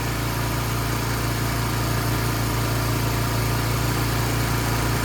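Grapple truck engine running at a steady idle, an even low hum with no change in pitch or load.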